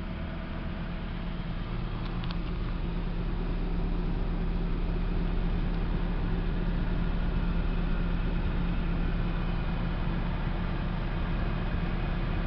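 Toyota RAV4's 3S four-cylinder engine idling steadily, a constant low hum that grows a little louder over the first few seconds.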